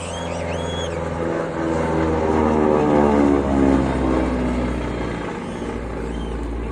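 Propeller aircraft engine passing by, its even drone growing louder to a peak about three to four seconds in and then fading. A few short high chirps sound in the first second.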